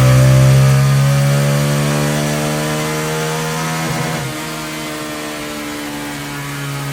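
Honda CT125's 125 cc single-cylinder four-stroke engine running at high revs while being tuned on a Dynojet dyno. It holds a steady, buzzing note, with a brief wobble in pitch about halfway through before it settles again.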